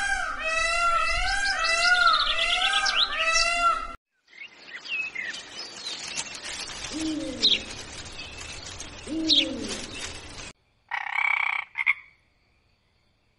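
Animal calls in short cut-together clips. First comes a dense chorus of calls repeating about twice a second, then after a sudden cut two falling calls a couple of seconds apart, then a brief higher call before it goes silent.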